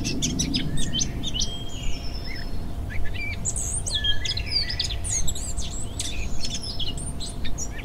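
Songbirds chirping and singing: many short, quick, overlapping calls and trills, over a low even rumble and a faint steady tone.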